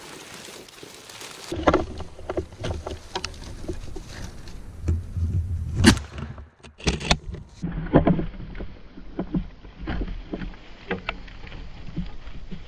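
Close, irregular rustling, scraping and knocking of handling noise, with several sharp knocks, the loudest about six seconds in, and abrupt jumps in the sound where the recording is cut.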